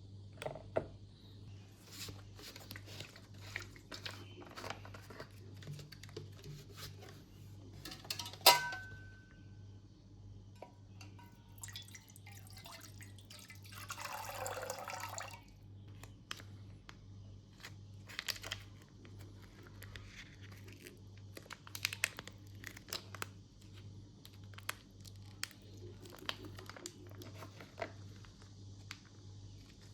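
Ration food packets being handled: plastic wrappers crinkling and clicking, with one sharp click that rings briefly about eight seconds in and a longer rustling stretch of a few seconds around the middle.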